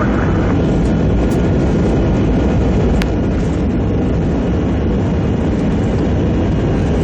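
Airbus A321 jet engines at takeoff power, heard from inside the cabin as a loud, steady roar and rumble during the takeoff roll. A brief click sounds about three seconds in.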